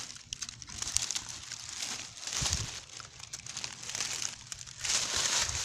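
Irregular crinkling and rustling, with a few soft low thumps midway and a louder stretch of rustling near the end.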